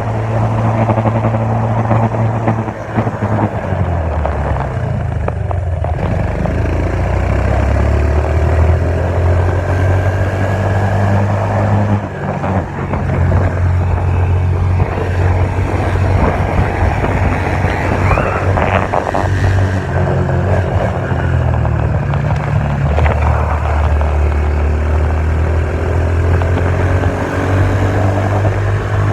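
Dirt bike engine running under throttle as it is ridden, its revs rising and falling, with shifts in engine pitch about three, twelve and twenty-three seconds in.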